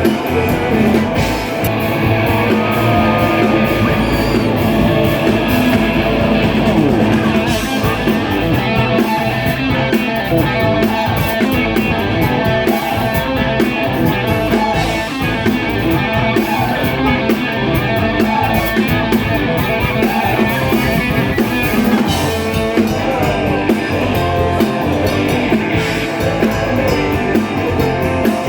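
Rock music played on electric guitar and drum kit, loud and steady.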